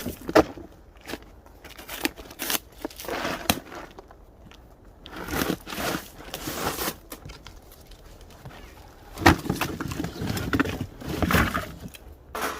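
Things being handled close by: a few sharp knocks among stretches of scraping and rustling.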